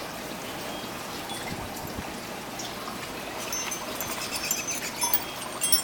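Steady wind noise in a blizzard, with light high tinkling of wind chimes starting about three and a half seconds in.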